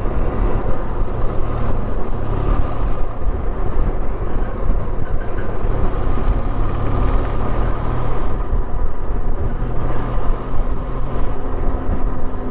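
Benelli TRK 502's parallel-twin engine running steadily while riding on the road, mixed with a steady rush of wind and road noise.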